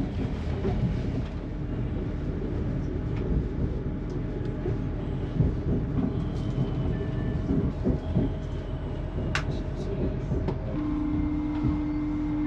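Heard from inside the passenger coach, an LNER intercity train running on the line, a steady rumble with a thin whine that grows stronger near the end, and a single sharp click about nine seconds in.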